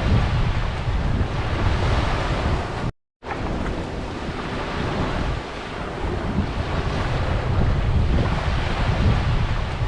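Ocean surf washing onto a beach, with wind buffeting the microphone. The sound cuts out completely for a split second about three seconds in.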